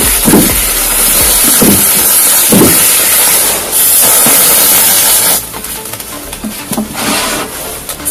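Firework composition burning with a loud, steady hissing spray, set off by a red-hot knife. It cuts off abruptly about five seconds in and gives way to weaker sputters, with a few dull thumps early on.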